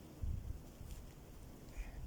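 Footsteps of a person walking in the forest: irregular soft, low thuds, with a faint click about a second in and a short faint chirp near the end.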